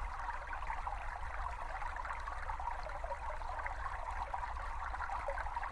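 A small brook babbling steadily over stones, a recorded natural stream with an even, continuous trickling texture and a faint low rumble underneath.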